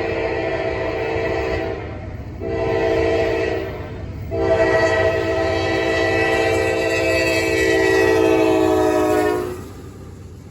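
Norfolk Southern locomotive air horn sounding a multi-note chord in a long–short–long pattern, typical of a grade-crossing signal. The last blast is held for about five seconds and cuts off near the end, over a steady low rumble of the moving train.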